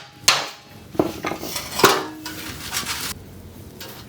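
Hammer blows on a steel C-channel tab being bent over: a sharp strike, then two more about a second apart, the last ringing briefly, with metal clanking between them.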